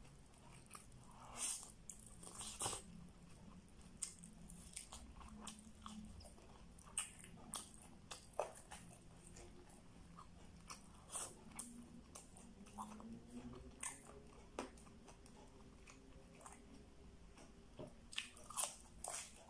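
Close-up eating sounds from a person eating with her hands: quiet chewing with scattered sharp clicks and crunches from bites. A crisp cluster of crunches near the end as she bites into a raw vegetable.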